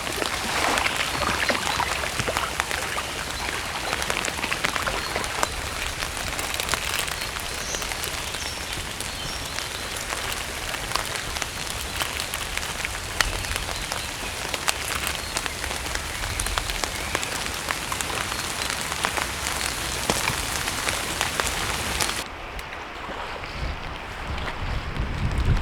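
Heavy rain falling, a dense rush of drops with many sharp individual taps. About 22 seconds in the sound changes abruptly to a duller rush with a low wind rumble.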